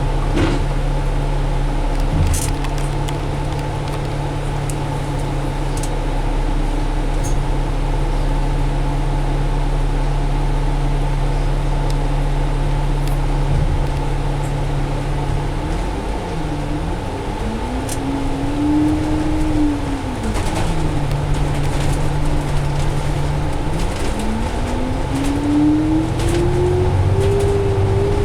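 Double-decker bus's Cummins ISL diesel engine running steadily at first. A little past halfway its pitch dips, rises and falls back, and near the end it climbs steadily as the bus accelerates through the gears of its Allison automatic transmission.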